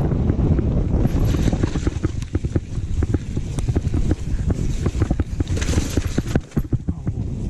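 Wind buffeting the microphone at riding speed, with a dense string of sharp clicks and clatters from a downhill mountain bike rattling over rough trail.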